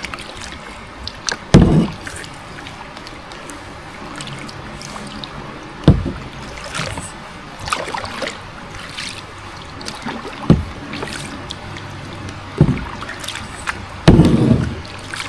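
A paddle working a small boat through water: irregular strokes with splashing and heavy knocks of the paddle against the boat.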